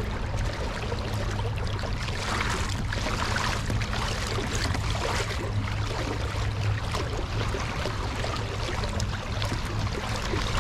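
Kayak motor running with a steady low hum, over water swishing and splashing along the hull. The motor is under load, towing a swamped kayak against a strong current.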